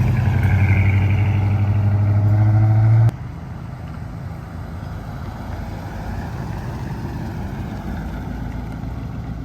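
Car engine held at high revs, loud and steady with its pitch creeping up, cutting off abruptly about three seconds in; after that a fainter engine sound runs on with a faint rise in pitch.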